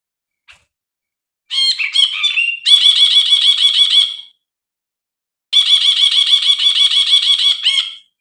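Brinji bulbul singing: two bursts of fast, repeated ringing notes, each two to three seconds long, with a short pause between them.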